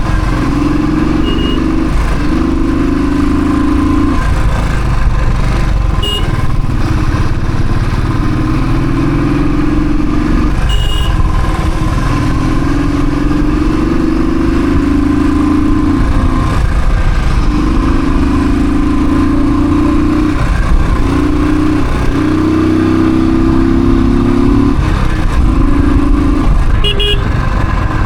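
Royal Enfield Thunderbird single-cylinder engine running on the move, its note climbing slowly and breaking off every few seconds as the throttle is worked through the ride. A few short high beeps, like horns, come through.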